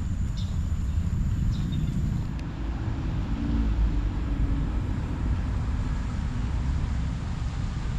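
Steady low rumble of a vehicle in motion, with a faint wavering whine for a couple of seconds in the middle.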